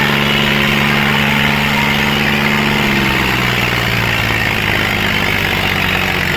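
Tractor diesel engine running steadily, its engine note dropping slightly about three seconds in as the revs ease off.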